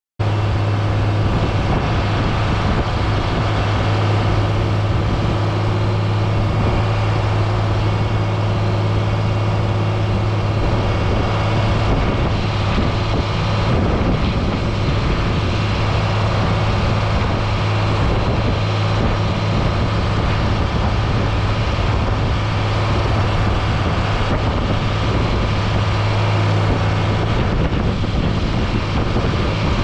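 John Deere 670G motor grader's diesel engine running steadily, a constant low drone with no changes in speed.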